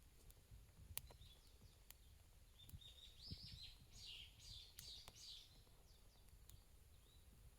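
Faint bird twittering for about three seconds in the middle, over a low outdoor rumble, with a few sharp clicks.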